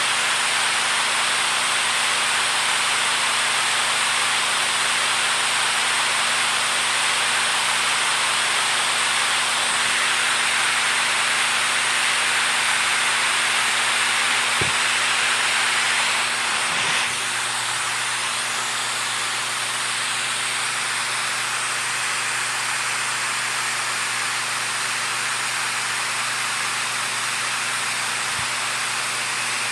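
Steady rushing water, an even continuous hiss, dropping slightly in level a little over halfway through.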